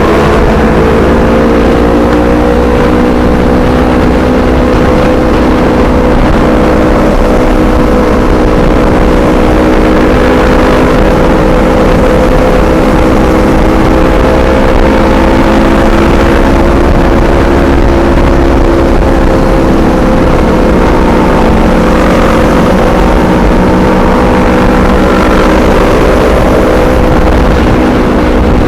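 Yamaha R25's parallel-twin engine running through a Black Devils aftermarket exhaust, held at a steady engine speed. The exhaust note is loud and even, with only a slight shift in pitch near the start.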